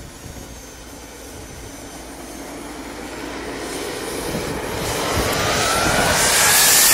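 Miniature turbine jet engine of a J10 model jet, a whine that rises steadily in pitch while its rushing noise grows louder through the second half.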